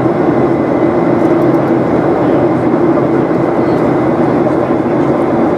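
Steady engine and airflow noise of a Boeing 737-800's CFM56-7B turbofans, heard from inside the passenger cabin, with a faint high tone held steady throughout.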